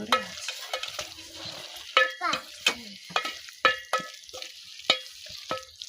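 A metal cooking utensil knocking and scraping against a metal pan in irregular strokes, each knock ringing briefly, with food frying faintly underneath.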